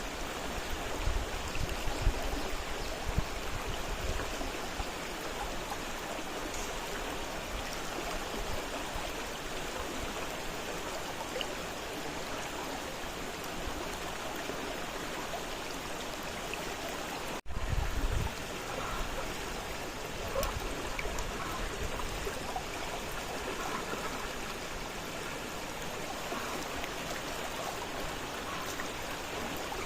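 Fast-flowing river: steady rushing and gurgling water, with low rumbles now and then and a brief dropout a little past halfway.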